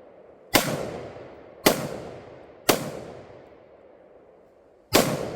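Four gunshots from a firearm in competition shooting: three about a second apart, then a pause of about two seconds before the fourth. Each shot trails off in a long echo.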